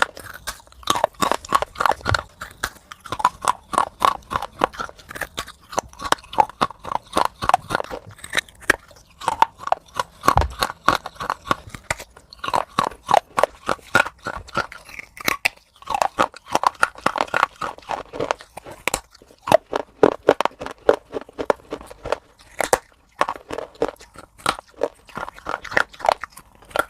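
Close-miked chewing of crunchy food: rapid crisp crunches, several a second, coming in runs of a few seconds with short pauses between.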